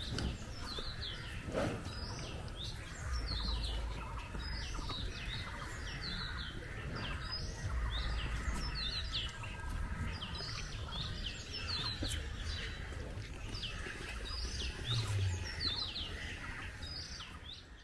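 Many small birds chirping and calling, with short, quick chirps repeating closely throughout. A low rumble comes and goes underneath a few times.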